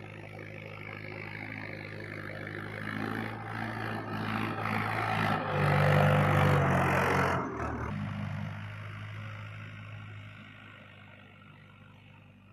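Tractor engine running. It grows louder to a peak about six to seven seconds in, changes abruptly just after, then eases off and fades.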